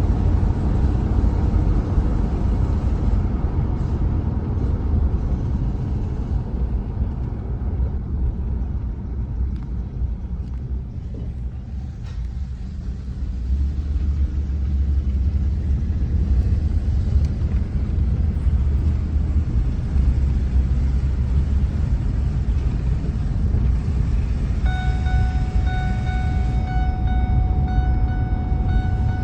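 Truck driving, a steady low rumble of engine and road noise. About twenty-five seconds in, a steady high tone with overtones joins it and holds on.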